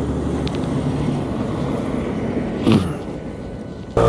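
125 cc motorcycle riding on the road: steady engine and road noise, with a brief loud sweep falling sharply in pitch a little before the end.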